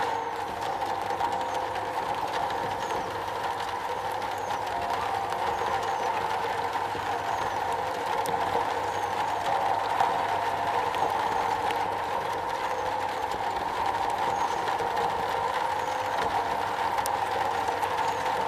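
Steady rain drumming on a metal roof, a dense even patter with a few sharper drop ticks.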